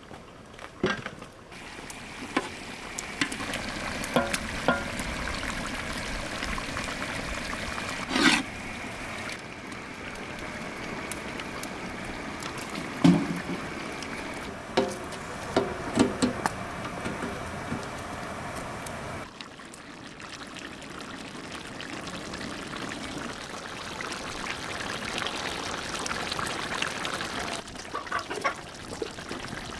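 Food cooking in a large metal pot: a steady watery hiss of onions frying in oil, broken by scattered knocks and clinks of a spoon against the pot. The hiss drops away for a moment about two-thirds of the way through, then returns.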